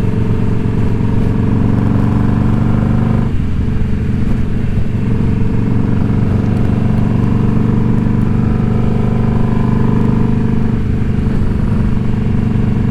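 Indian Scout Bobber's V-twin engine running steadily while riding, with a change in engine note about three seconds in and again near eleven seconds.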